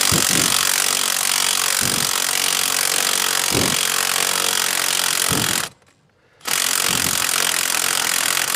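Power drill fitted with a socket, running at speed to undo a bolt. It runs steadily, stops briefly about six seconds in, then runs again.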